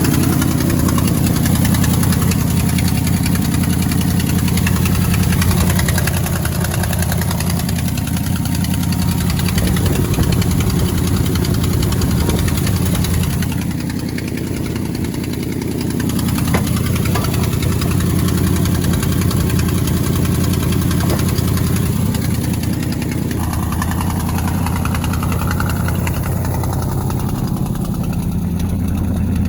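Old Ford F-250 Highboy truck engine idling steadily as it warms up after a cold start. It goes slightly quieter for a couple of seconds about halfway through.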